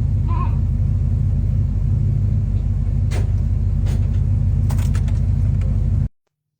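Chevrolet truck engine running with a steady, deep exhaust rumble, with a few faint clicks over it; it cuts off suddenly about six seconds in.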